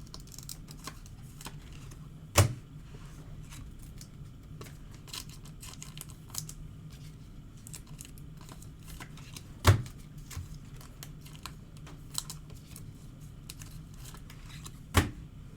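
Baseball trading cards being handled at a table during a pack break: a run of light clicks, taps and plastic rustles as cards are sorted and sleeved, with three louder sharp knocks, a couple of seconds in, near the middle and near the end.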